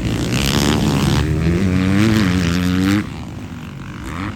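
Motocross bike engine running hard under throttle, its pitch wavering up and down, then falling away sharply in level about three seconds in.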